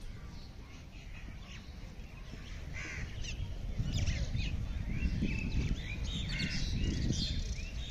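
Many birds calling in short, high chirps and calls, with a low rumbling noise growing louder from about four seconds in.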